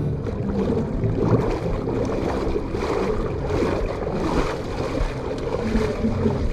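Water rushing and splashing in a lazy river's current, swelling and easing several times, over a steady low hum.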